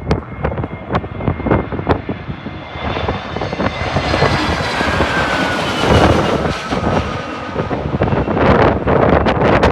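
Jet airliner passing low overhead on its landing approach: its engine noise swells, and the whine slides down in pitch as it goes by. Gusty wind buffets the microphone at the start and again near the end.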